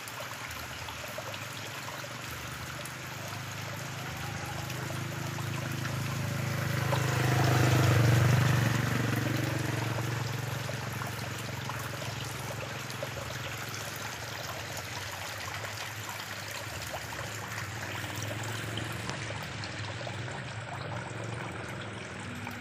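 Rain falling on open water, a steady hiss of drops on the surface. A louder whooshing swell builds and fades away around eight seconds in.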